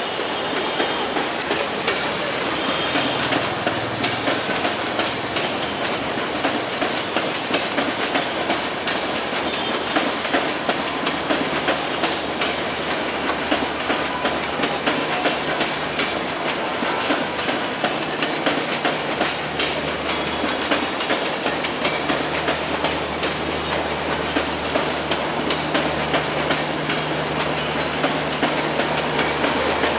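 Diesel locomotive hauling a passenger train at slow speed, with a steady rumble and wheels clicking over rail joints and points. A low engine hum comes up about halfway through and holds.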